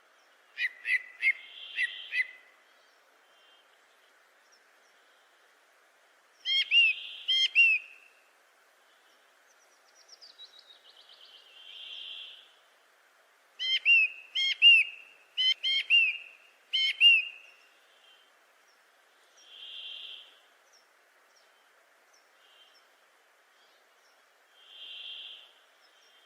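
Bird calls: groups of sharp, quick repeated notes, with softer single notes in the pauses between them, over a faint steady hiss.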